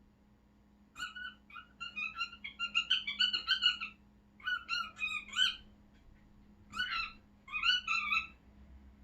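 Pet cockatiel calling excitedly: loud bouts of quick chirps and whistled notes, starting about a second in and pausing twice before stopping near the end.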